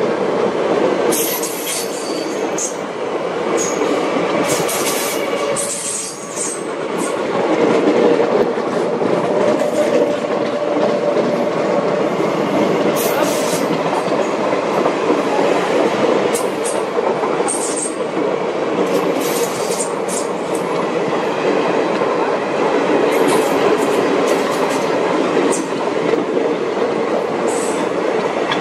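Passenger train rolling past: steady wheel rumble and clatter on the rails, with brief high-pitched wheel squeals and screeches cutting in every few seconds.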